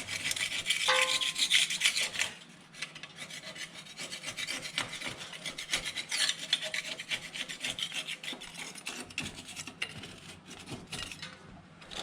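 Rapid back-and-forth scrubbing strokes working caked dirt off a truck part, heavier for the first two seconds and then lighter, with a short squeak about a second in.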